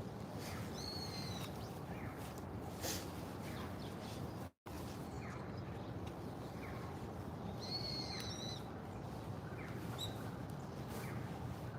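Birds calling in a city park: two matching high calls about seven seconds apart, and a few faint short falling chirps, over a steady low hum of distant city noise. The sound cuts out for a split second halfway through.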